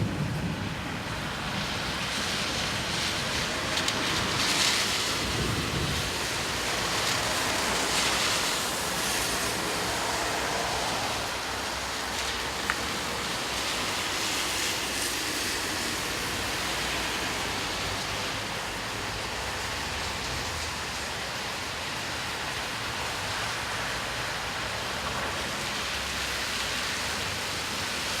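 Steady rain falling, an even hiss, with a few brief louder swells in the first ten seconds.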